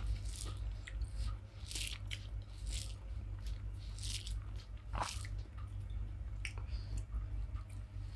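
Close mouth sounds of a person eating rice with lote fish (Bombay duck) curry: irregular wet chewing and lip smacks, about one or two a second, over a steady low hum.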